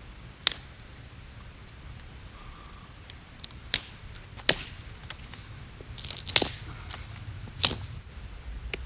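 Dry wood cracking and snapping: about half a dozen sharp, separate snaps, a second or so apart, with a quick double snap a little past the middle.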